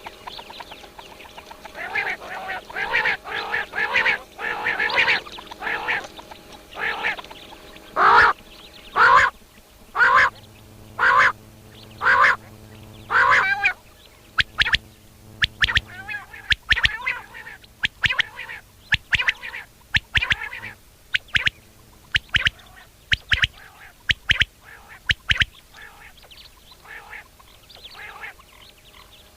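Bird calls: a run of loud calls at about one a second, then quicker, shorter clipped notes in twos and threes that fade out near the end.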